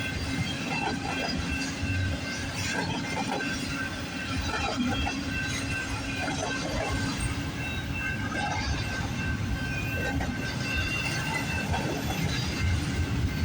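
Long freight train of intermodal and auto-rack cars rolling past: a steady rumble of wheels on rail, with faint thin high wheel tones over it.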